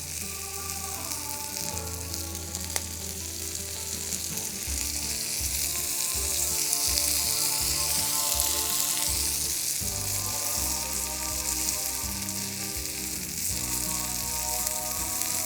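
Chicken frying in oil on a thick steel griddle plate over a log fire: a steady, dense sizzle that swells about six seconds in and eases again after nine, as fresh oil hits the hot plate for a final sear.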